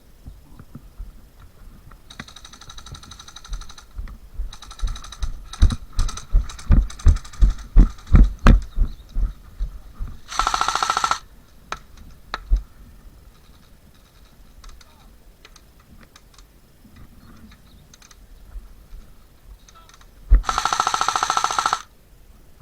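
Airsoft electric gun firing full-auto bursts, each a fast buzzing rattle about a second long, two loud ones about ten seconds apart with fainter bursts earlier. Between them, a run of heavy thumps, about two a second.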